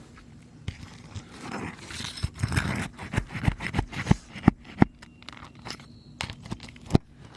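Roof snake scraping and grinding under brittle asphalt shingles as it is worked against the nails, with the shingle crunching. This is followed by a run of sharp knocks, the loudest two coming close together about halfway through, and one more near the end.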